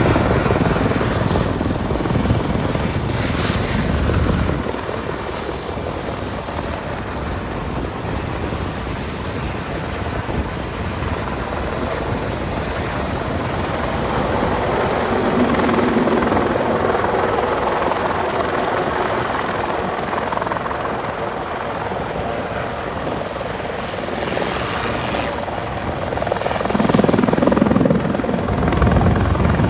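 Helicopter running as it comes in to land: a continuous rotor and engine noise, with a heavier low rumble in the first few seconds and again a few seconds before the end.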